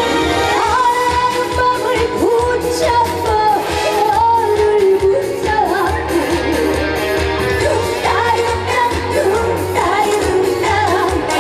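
A woman singing an upbeat Korean trot song live over a loud backing band track with a steady beat.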